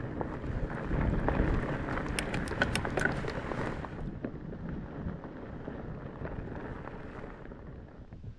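Wind buffeting the microphone and fat-bike tyres rolling over a dirt trail, with a quick run of sharp clicks about two to three and a half seconds in. The noise fades toward the end.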